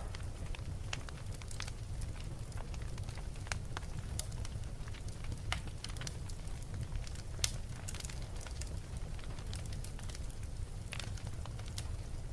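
Wood fire burning in a fireplace: irregular sharp crackles and pops scattered over a steady low rumble of the flames.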